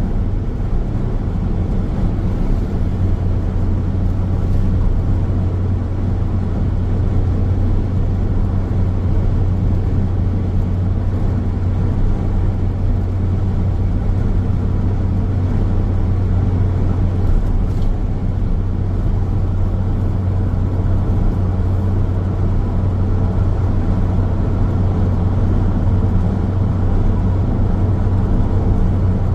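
Road noise of a car driving at a steady speed: an even rush of tyres on the road with a steady low hum, unchanging throughout.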